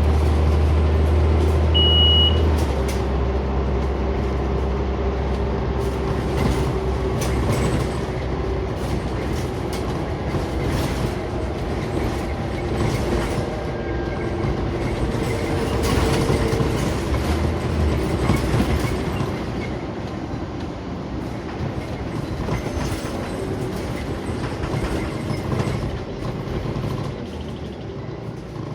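Scania Omnicity single-deck bus heard from inside while under way: engine and road noise with the interior panels rattling and clicking. A strong low engine hum drops away about two and a half seconds in, just after a short high beep.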